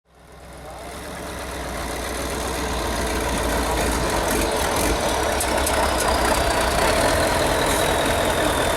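Heavy off-road trial truck's diesel engine running, fading in over the first couple of seconds to a steady level, with a high whine that slowly falls in pitch.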